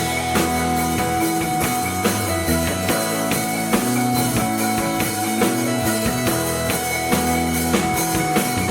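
Rock band playing live, with drum kit and guitars over steady sustained chords and regular drum hits.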